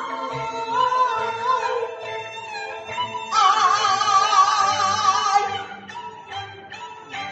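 Hebei bangzi opera music: a long, wavering sung line over instrumental accompaniment, with a loud stretch in the middle. The music drops to quieter accompaniment for the last couple of seconds.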